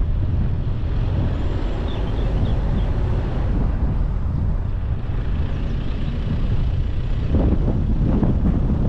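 Wind buffeting the microphone over the road and engine noise of a car being driven, with a louder rush of noise about seven seconds in.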